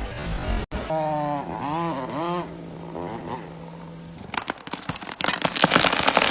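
A short pitched calling sound over a steady low hum, then a run of rapid cracks and snaps that grows denser and louder over the last two seconds, typical of wood splitting as a felled tree begins to fall.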